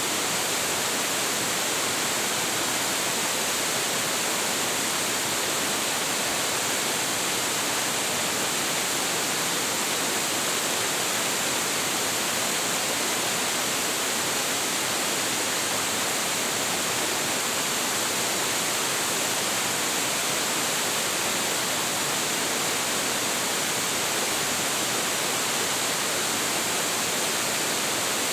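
Large waterfall pouring steadily, a dense, even rush of falling water with no breaks or changes.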